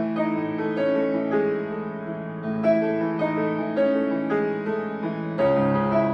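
Live band playing an instrumental passage of a rock song without vocals: held chords that change every second or so, with the low end filling out about five and a half seconds in.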